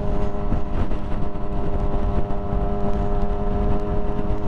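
Motorcycle engine running at a steady cruising speed, a constant even drone with no change in pitch, over a heavy low rumble of wind and road noise.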